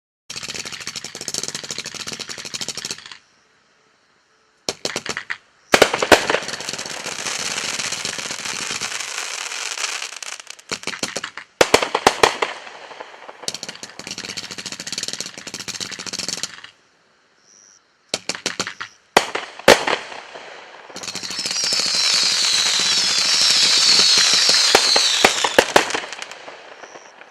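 A 500-gram consumer fireworks cake firing in several volleys. Sharp loud reports come amid long stretches of dense crackling, with brief silent pauses between volleys. The final volley is the longest and loudest run of crackle.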